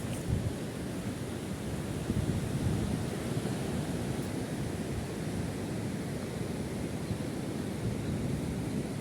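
Wind buffeting the microphone: a steady, fluttering rumble.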